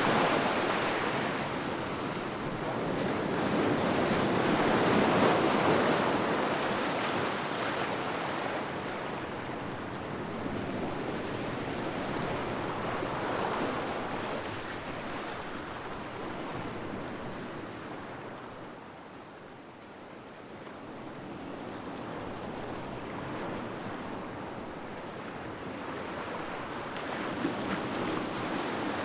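Sea waves breaking and washing on a shore, a steady rush that swells and fades in slow surges, easing off around two-thirds of the way through before building again near the end.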